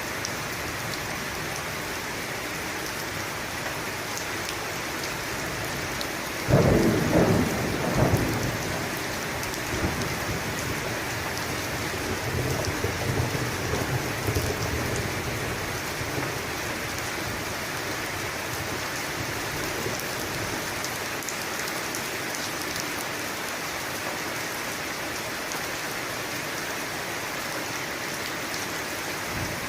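Steady heavy rainfall with a thunderclap about six seconds in, cracking sharply twice and then rumbling low for several seconds before fading back into the rain.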